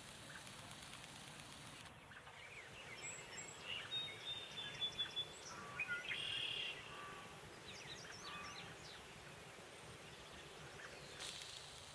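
Songbirds chirping and calling, faint, over a steady outdoor hiss; the calls come thickest between about two and seven seconds in.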